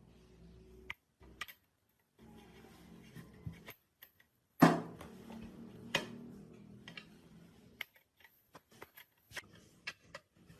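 Workshop handling noises: scattered clicks and knocks of parts and tools being handled, with one loud sharp clank about halfway that rings out briefly, broken by abrupt cuts to silence.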